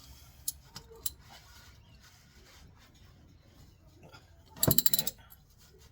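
Hand tools on a diff plug: a couple of light metallic clicks, then about four and a half seconds in a short burst of rapid clicking.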